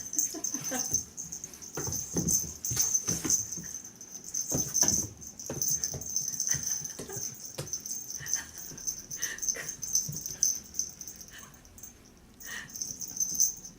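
A kitten's paws thumping and scrabbling on the floor as it chases and pounces, in many quick irregular knocks and scuffles.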